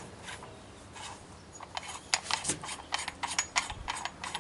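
Handling noise from a rifle's muzzle brake and machined sound-redirecting can being fiddled with: irregular light clicks and rubbing, starting about a second and a half in.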